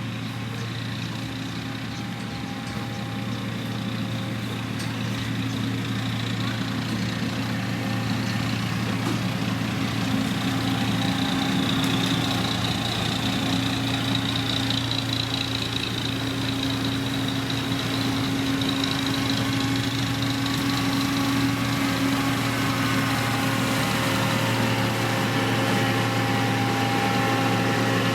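Heavy road-construction machine's diesel engine running steadily, a constant low hum with a faint high whine that swells in the middle and fades again.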